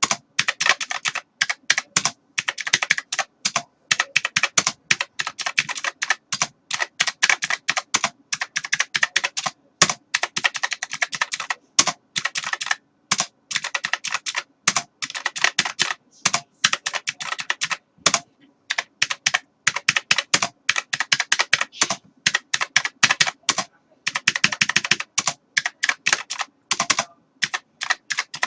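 Typing on a computer keyboard: fast runs of sharp key clicks in bursts, with short pauses between them.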